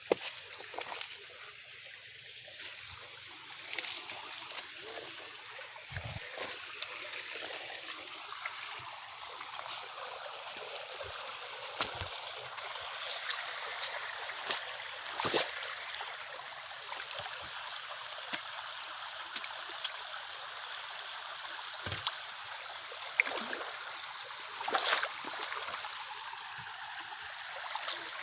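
Floodwater running and trickling steadily, with scattered small splashes and knocks.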